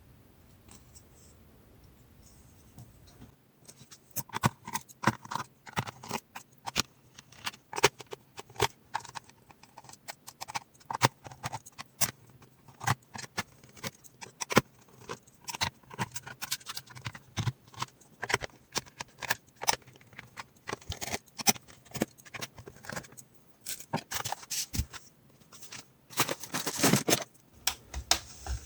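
Small plastic laptop parts being worked by hand during disassembly: a long run of irregular sharp clicks, snaps and scrapes, starting after a few quiet seconds, with a dense scraping flurry near the end.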